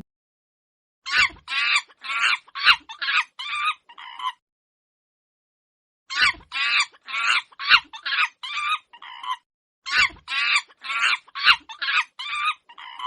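Chicken clucking in three runs of about seven or eight quick, short calls each, with silence between the runs.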